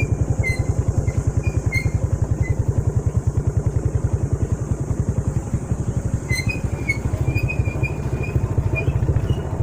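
Small motorcycle engine running steadily with a rapid, even low putter. Short high chirps come and go over it.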